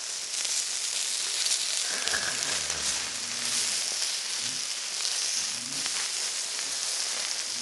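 Sliced pork sizzling steadily on gravel stones heated over a fire, with fine crackles in the hiss.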